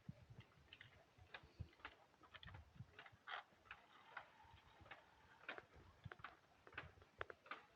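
Faint, irregular clicks and ticks, several a second, unevenly spaced.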